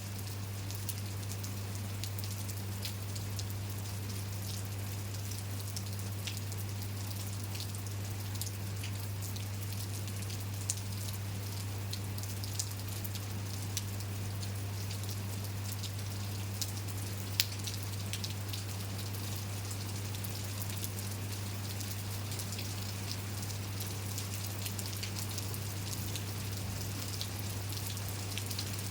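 Steady rain falling, with scattered individual drops ticking sharply on a surface, one especially sharp drop about two-thirds of the way through. A steady low hum runs underneath.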